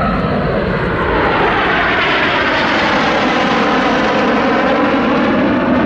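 Formation of Red Arrows BAE Hawk T1 jets passing by, their Adour turbofans making a steady loud roar with a sweeping whoosh that dips and rises as they go past.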